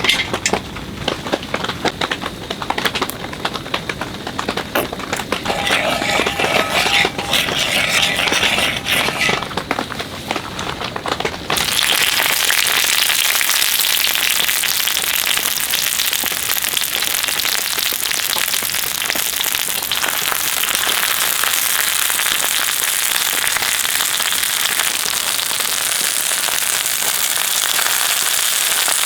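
Irregular crackling and tapping, then, about a third of the way in, an abrupt change to the steady, even hiss of heavy rain falling.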